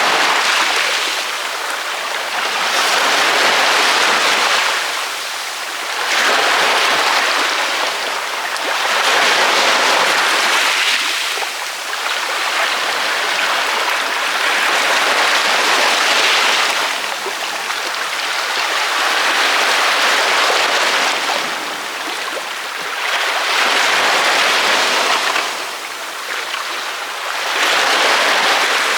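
Ocean waves breaking on a beach, a steady rush of surf that swells and eases with each wave, about every three to four seconds.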